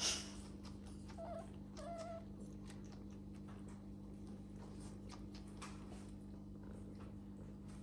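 Cats tussling: a sharp noisy burst right at the start, then two short, soft pitched calls about one and two seconds in, with faint scattered scuffling clicks over a steady low hum.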